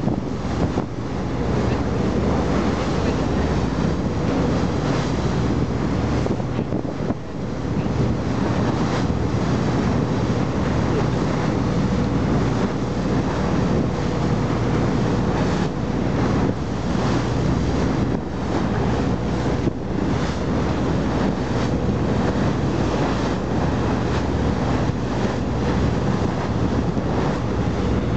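Boat engine running steadily, under heavy wind buffeting the microphone.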